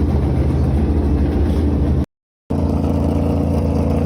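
A vehicle engine running steadily at a constant speed. It is broken by a short gap of complete silence about two seconds in, then resumes at a slightly different pitch.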